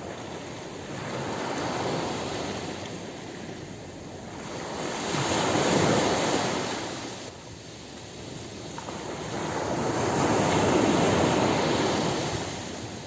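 Ocean waves breaking on a beach: three slow swells of surf rushing in and falling away, the second and third the loudest.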